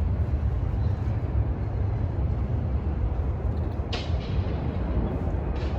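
Outdoor city ambience: a steady low rumble with a haze of background noise, and two short hisses about four seconds and five and a half seconds in.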